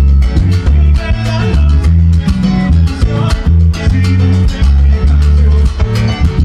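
Salsa band playing, with a heavy, moving bass line under a dense, steady rhythm.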